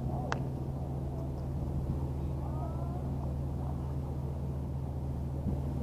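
Steady low drone of a running engine, with a single sharp click about a third of a second in.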